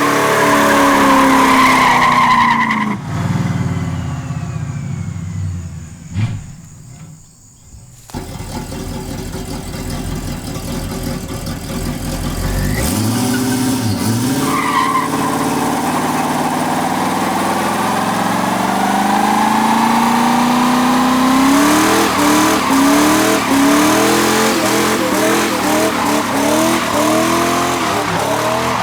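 A 1972 Chevy Nova's 350 small-block V8 revving hard in a brake-stand burnout, with the rear tires spinning and squealing. The revs fall away to a brief lull about five seconds in, then climb again and hold high.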